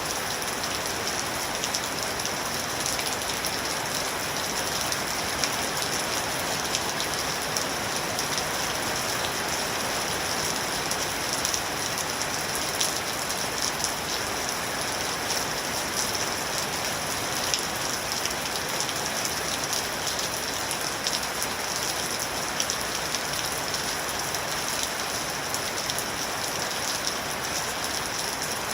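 Steady rain falling and pattering on a surface, a dense even hiss with the ticks of individual drops.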